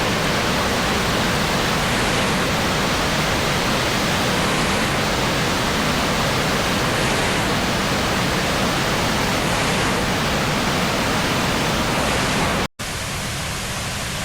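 Waterfall water rushing steadily as a loud, even hiss. Near the end it cuts off abruptly and gives way to a quieter, duller rush of water.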